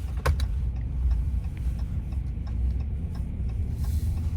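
Steady low road and engine rumble inside the cab of a Dodge Ram pickup on the move, with two sharp clicks shortly after the start.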